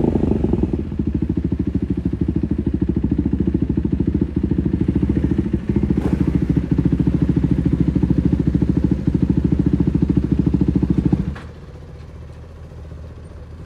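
2024 KTM 390 Duke's single-cylinder engine through an IXIL slip-on exhaust, running steadily with a short rise in revs at the start. About eleven seconds in the sound drops abruptly to a much quieter steady hum.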